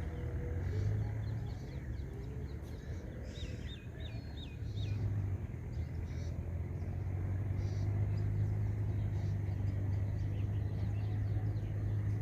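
Birds chirping, with a quick run of looping chirps about three to five seconds in and scattered calls after, over a steady low hum.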